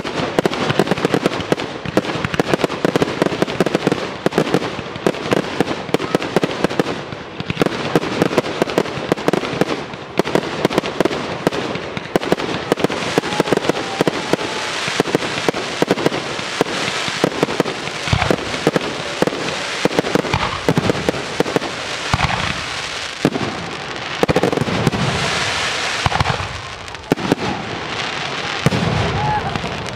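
Fireworks display at full barrage: aerial shells bursting in rapid, overlapping succession, a dense run of bangs and crackle with hardly a gap between reports.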